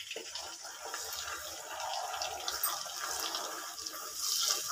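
Ground cashew-and-onion masala paste sizzling steadily in hot butter in a pan as it is stirred with a wooden spoon.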